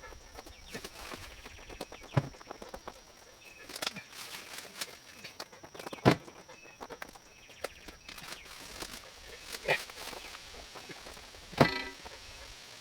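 A few scattered sharp knocks and cracks over footsteps. The loudest come about six seconds in and near the end, and the last one rings briefly.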